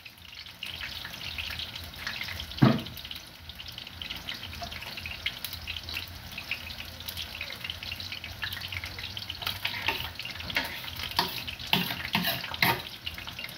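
Food sizzling and crackling steadily in a pan, with many small irregular pops and one sharp knock about two and a half seconds in.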